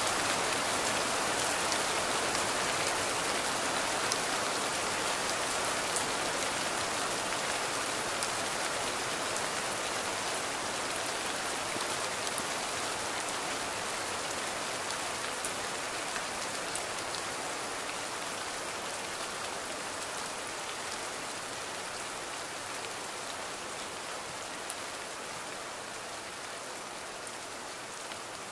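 Steady rain falling, with scattered individual drops ticking sharply through the hiss, growing gradually quieter.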